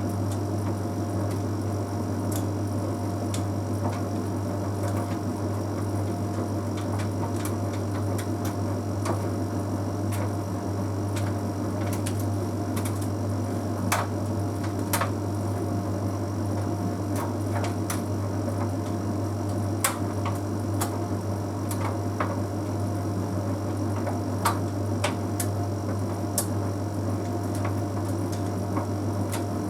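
Bosch Series 6 heat pump tumble dryer running mid-cycle: a steady low hum with a constant whirr, and irregular light clicks and taps as the half load of synthetic clothes tumbles in the drum.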